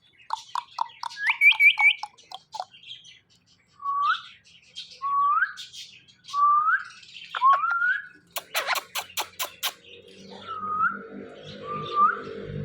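Male Indian ringneck parakeet calling: a quick run of short chirps, then a series of rising whistled calls about a second apart. Midway comes a fast run of about six sharp clicks, and a low hum starts under the calls near the end.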